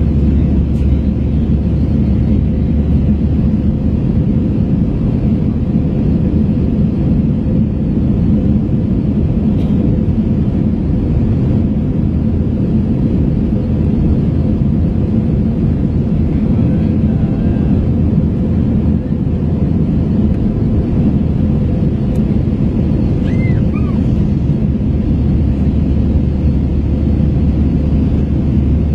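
Steady low drone of an Airbus A321's engines and airflow, heard inside the passenger cabin in flight.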